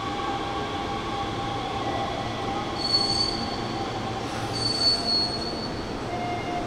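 Hanshin Railway electric train running at the platform, with steady running noise and its wheels squealing high twice, about three and about five seconds in.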